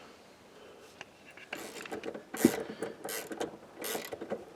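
Ratchet wrench clicking in repeated short strokes, about one stroke every three-quarters of a second, starting about a second and a half in, as a fastener is backed out.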